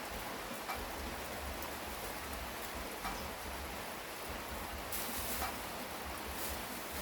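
Steady rain falling, an even hiss with now and then a single louder drip landing close by.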